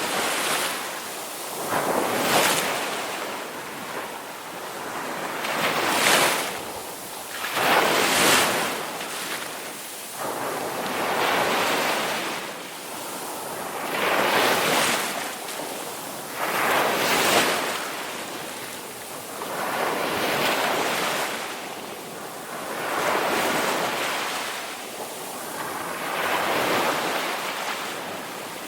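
Ocean waves breaking and washing onto a shore in repeated surges, each swelling and ebbing over two to four seconds.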